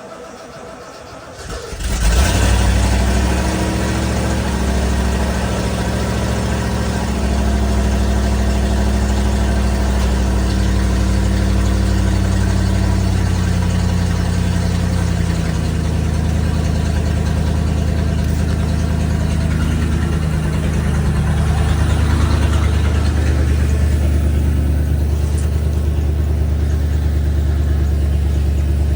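An old vehicle's engine cold-started at about 0°F: it cranks briefly, catches about two seconds in, then settles into a steady idle.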